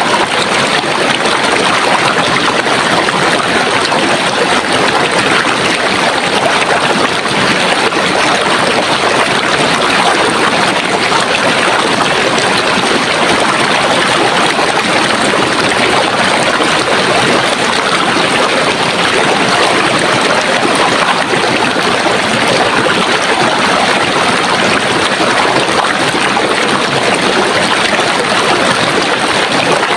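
Running water of a stream, a steady even rush and babble with no let-up.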